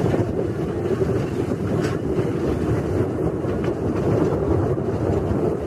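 Narrow-gauge tourist train rolling along its track, heard from aboard the carriage: a steady rumble of wheels on rails and running gear.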